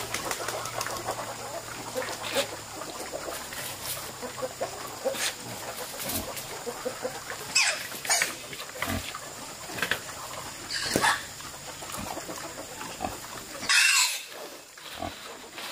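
Pigs grunting and giving short squeals at irregular intervals, with one louder squeal near the end.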